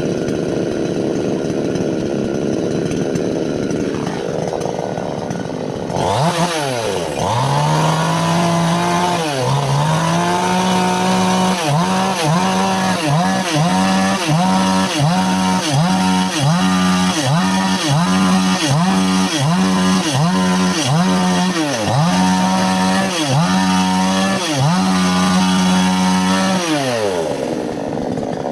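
Two-stroke chainsaw cutting wood at full throttle. From about six seconds in, the engine pitch dips and recovers over and over, about once a second, as the chain bites and loads the engine. Near the end the revs fall away and then climb again.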